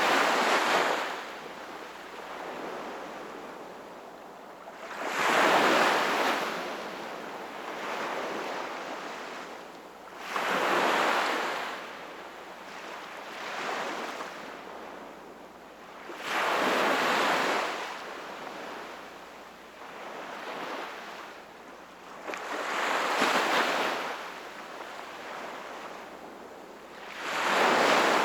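Sea waves breaking in a slow, even cycle: six surges, about one every five to six seconds, each swelling and fading, with a quieter wash in between.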